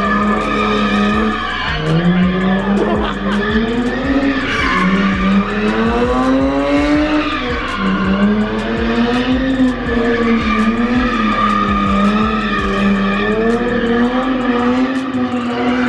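A car's engine revving up and down in repeated swells while its tyres squeal and skid, as in a burnout or spinning-tyre stunt at a car meet.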